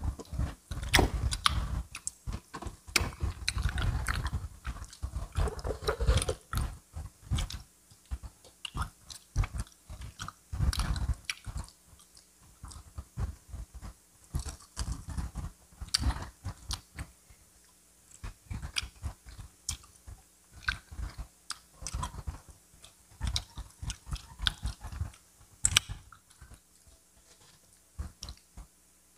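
Close-up chewing and biting of crispy fried chicken, with a crunchy crackle of the batter. The chewing is heavy and dense for the first several seconds and again about ten seconds in, then turns to quieter, scattered crunches.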